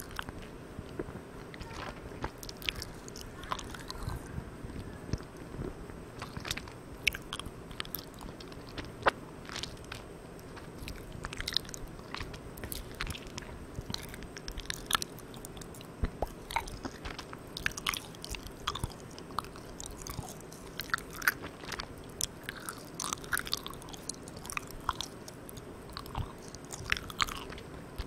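Close-miked chewing of Malang Cow soft chewy marshmallow candy: irregular sticky, wet mouth clicks and smacks. Under them runs a steady hiss from the recorder's gain being turned all the way up.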